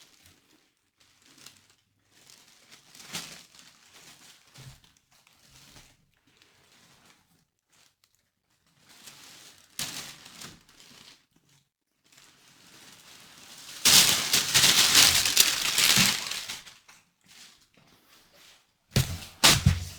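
Tissue paper wrapping rustling and crinkling as it is handled and pulled open, in scattered bursts, the longest and loudest about two-thirds of the way in, with two short sharp crackles near the end.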